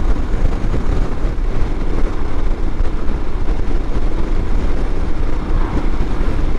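Royal Enfield Himalayan motorcycle riding at road speed, a steady loud rush of wind over the helmet microphone mixed with engine and road noise.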